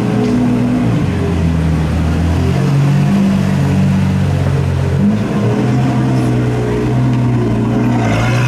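Car engine running at low revs, its deep note shifting in pitch a few times.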